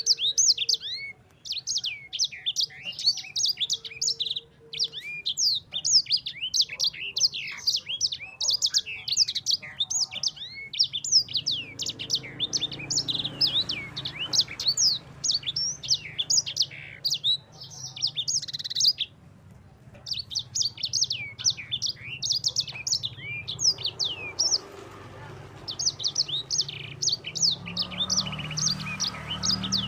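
Yellow-fronted canary (sanger) singing a fast, continuous rolling song of high chirps and trills, with one short break about two-thirds of the way through.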